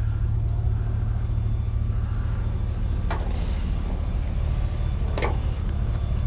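Vehicle engine idling with a steady low hum, with two short knocks about three and five seconds in.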